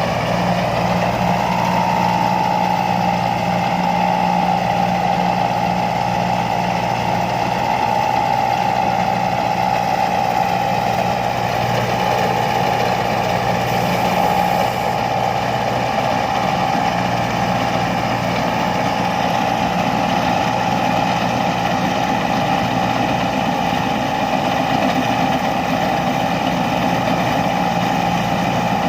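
Combine harvester's diesel engine running steadily at an even speed, with a steady high whine over the low engine note.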